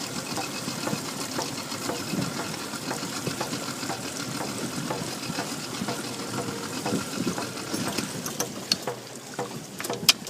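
Water sloshing and splashing in a steady rush, with scattered small clicks and a sharp knock near the end.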